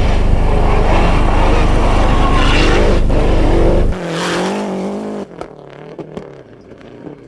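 Rally car at full speed on a stage, its engine loud over a heavy low rumble. About four seconds in this gives way to a quieter, steady engine note, which fades to a lower level with scattered sharp ticks.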